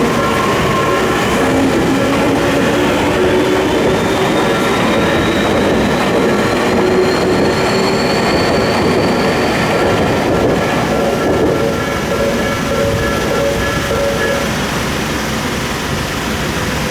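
Electric commuter train running over a level crossing, with wheels rumbling and clattering on the track. A motor whine rises slowly in pitch as the train gathers speed. Steady crossing-bell tones sound until near the end.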